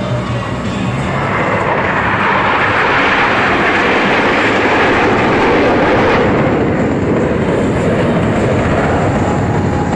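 Jet engine noise from KAI T-50-series jets flying past. It builds over the first few seconds, is loudest around the middle, and a sweeping tone in the rush falls in pitch as they pass.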